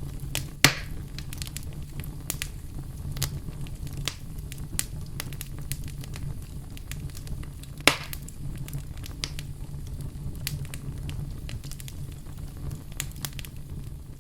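Fire crackling, with irregular sharp pops over a low steady rumble; two pops, about a second in and about eight seconds in, are much louder than the rest.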